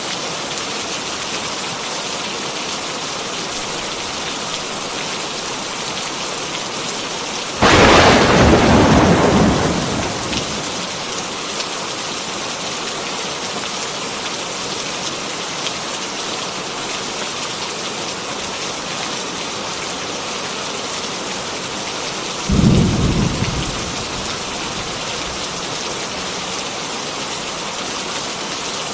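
Heavy rain falling steadily, with two claps of thunder: a loud one about a quarter of the way in that rumbles away over a couple of seconds, and a shorter, lower rumble about three-quarters of the way in.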